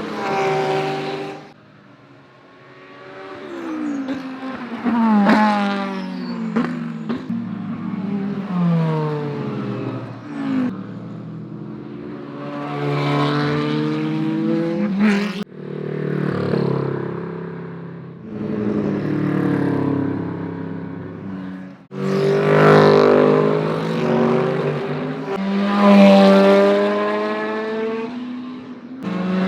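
GT3 race cars with naturally aspirated V8 engines passing at full pace, one after another. Each engine note rises and then drops in pitch as the car goes by, and the sound cuts abruptly from one pass to the next several times.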